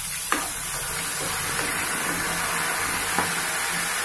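Ginger-garlic paste sizzling in hot oil in a frying pan, a steady hiss, with two light clicks, just after the start and about three seconds in.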